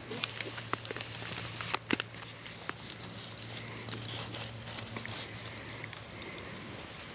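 Wood campfire crackling and popping, with a sizzling hiss over the first two seconds or so and two loud pops just before two seconds in.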